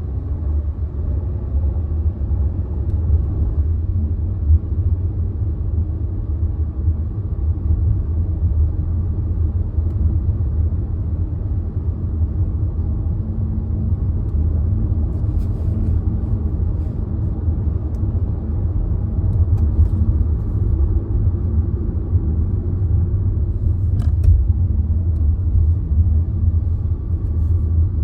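Car engine running with a steady low rumble, without any big revs, with a few faint clicks over it.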